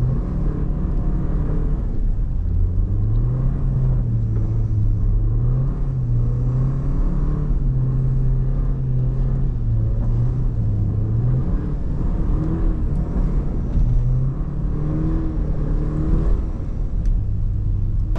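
Porsche Macan's four-cylinder engine under hard driving, its note rising and falling several times as it accelerates and eases off, over a steady low road rumble.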